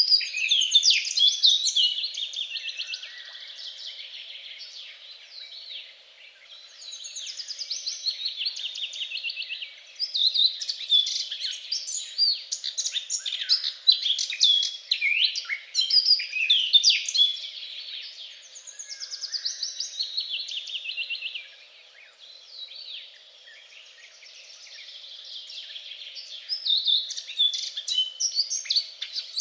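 Songbirds singing: a dense run of rapid trills and high chirps that swells and fades, with short lulls between phrases.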